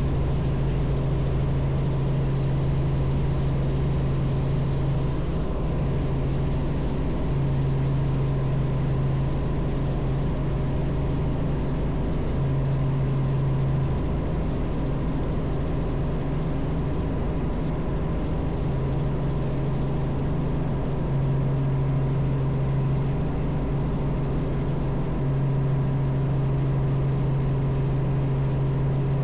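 Robinson R44 helicopter in flight: its piston engine and rotors make a continuous steady drone with a strong low hum that swells and eases slightly from moment to moment.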